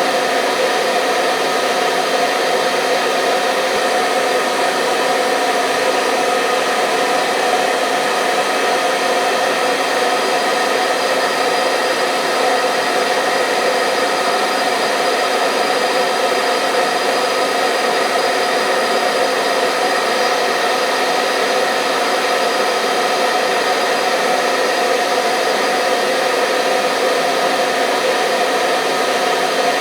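Hair dryer blowing at a steady speed: an even whooshing with a constant motor hum. It runs without change, as white noise for putting a baby to sleep.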